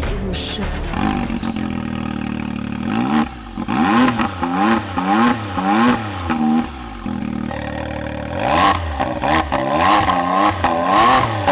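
Can-Am X3 Turbo's turbocharged three-cylinder engine idling, then revved in a series of quick blips that rise and fall in pitch, heard through an RPM E-Valve slip-on sport muffler. There is a short steady stretch between two bursts of revving.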